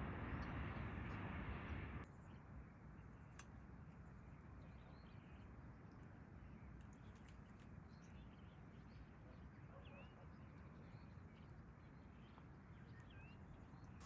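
A steady rushing noise cuts off abruptly about two seconds in, leaving a quiet outdoor background with a few faint, short bird chirps.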